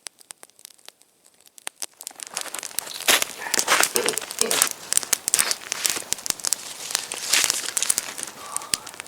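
Campfire of damp twigs being built up: a few sparse snaps, then from about two seconds in, dense, loud crackling and rustling.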